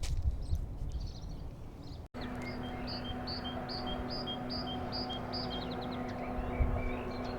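Wind rumble on the microphone, then after a sudden cut a songbird sings a phrase of about seven repeated high notes ending in a quick trill, over a steady low hum.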